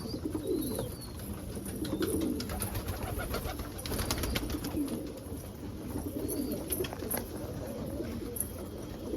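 A loft full of homing pigeons cooing over one another in repeated low coos, with a flurry of quick sharp taps a few seconds in while they feed on scattered wheat.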